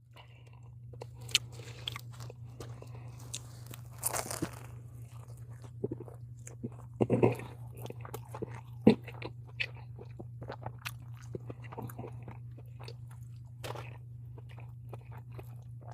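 Close-up biting and chewing of a toasted, buttered lobster roll: irregular crunches and wet chewing clicks, a few louder bites among them, over a steady low hum.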